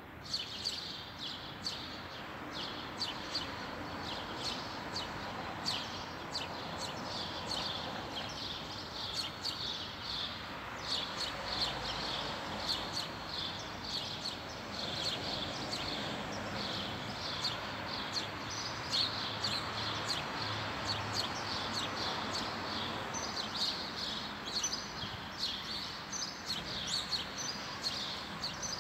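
Small songbirds chirping in quick, continuous bursts over a steady hum of outdoor background noise.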